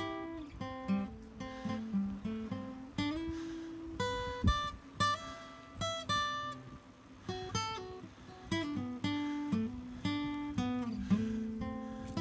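Background music: acoustic guitar played with plucked and strummed notes and chords.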